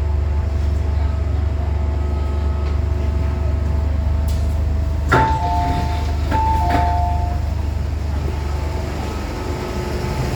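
MTR M-Train carriage rumbling steadily as it reaches Central. About five seconds in there is a click, then a two-note descending chime sounds twice as the doors open.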